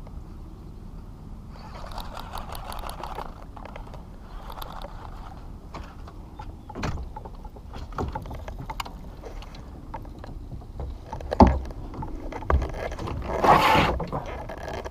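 Handling noises in a fishing kayak: a couple of brief rustling swishes early on, then several sharp knocks against the hull and a louder scraping rustle near the end.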